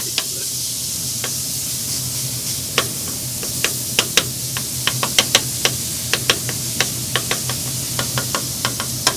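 Meat sizzling on a griddle, with a metal spatula clacking and scraping against the cooking surface again and again from about three seconds in as the meat is chopped up.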